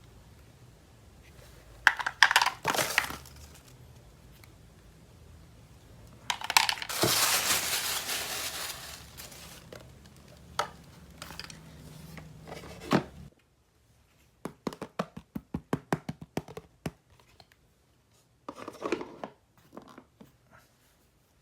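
Toy packaging being opened: plastic and paper tearing and crinkling in a few bursts, the longest about two seconds, then a quick run of small plastic clicks as the toy pieces are handled.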